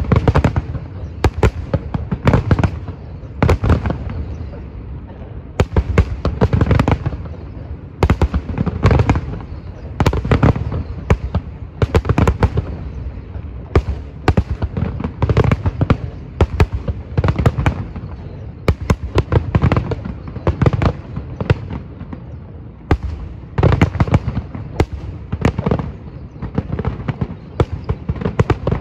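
Aerial firework shells bursting in a dense, continuous barrage: sharp bangs every fraction of a second over a deep, rolling rumble, with no pause throughout.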